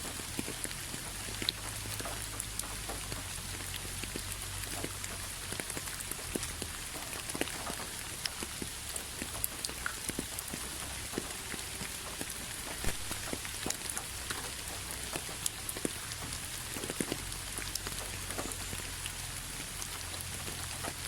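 Steady rain falling on a hard surface, a constant hiss with many scattered drop ticks and a low rumble beneath.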